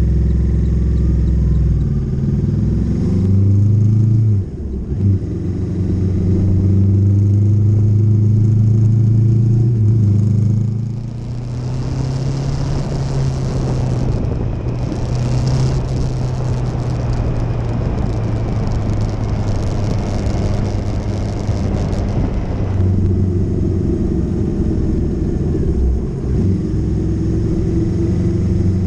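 Motorcycle engine running under way, with a brief dip and change in pitch about four seconds in. From about eleven seconds the engine eases off and a loud hissing rush takes over for about ten seconds, then the engine pulls strongly again.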